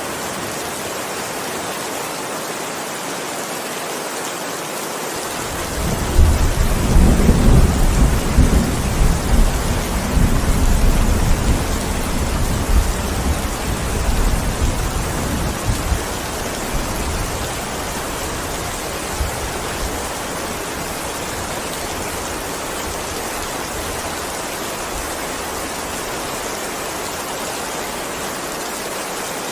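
Steady heavy rain, with a long roll of thunder starting about five seconds in, loudest a few seconds later and rumbling away over about ten seconds.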